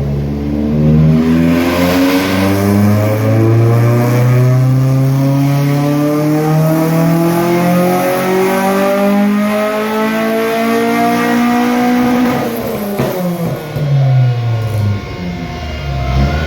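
VW Golf Mk2's 16-valve four-cylinder on individual throttle bodies making a full-throttle dyno pull. The revs climb steadily for about eleven seconds, then the throttle shuts and the revs fall away. The owner reads the run as good, overfueling a touch.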